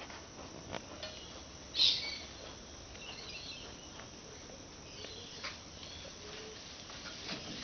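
Birds chirping against a steady outdoor background hiss, with one louder short chirp about two seconds in and a few faint clicks.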